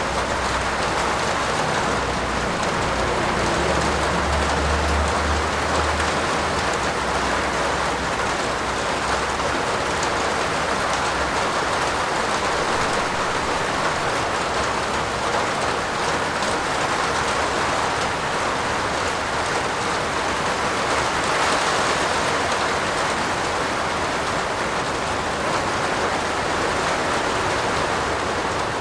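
Heavy rain falling steadily, a dense even hiss of drops. A low rumble swells briefly about four seconds in.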